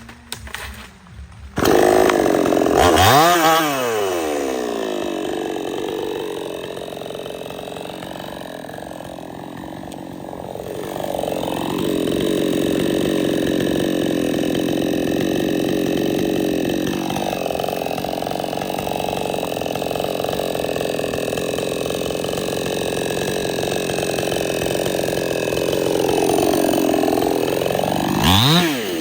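Stihl 070 two-stroke chainsaw starting loud about two seconds in and revving up, then running at high speed through wood. Its pitch sags and recovers a few times as the cut loads the engine.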